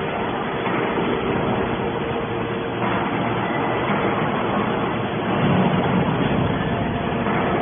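Hydraulic scrap-metal baler running: a steady machine drone with a constant hum, swelling a little louder about three seconds in and again near the end.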